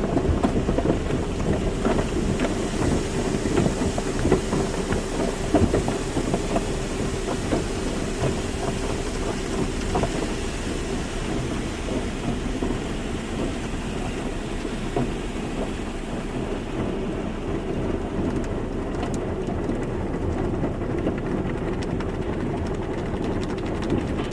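Car wash running: water spraying and pattering on a car, over a steady machine hum, with scattered short knocks.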